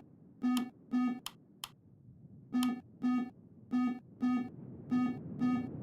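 Aircraft cockpit aural warning tone beeping in pairs, eight short electronic beeps, with two faint clicks between the first and second pair and a low cockpit noise rising underneath.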